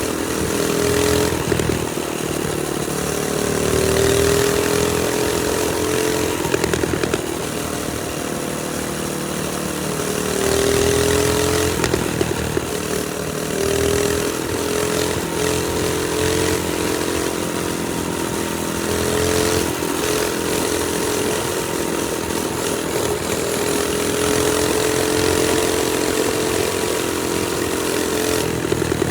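Trailmaster Storm 200 minibike's small single-cylinder four-stroke engine running under way, its pitch rising and falling repeatedly as the throttle is opened and eased off.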